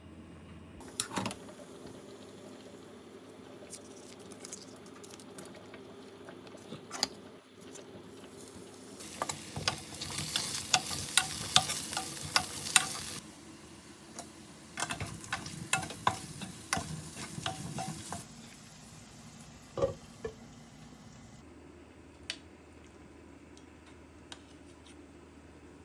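Food sizzling in a pan while a utensil stirs and clacks against it, in two busy stretches of clatter, with a few single clicks and knocks around them.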